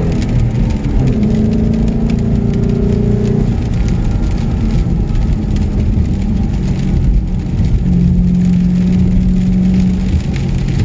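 Car engine pulling along a winding road with steady road and tyre noise. Its pitch drops in the first second as the revs fall, then holds fairly steady.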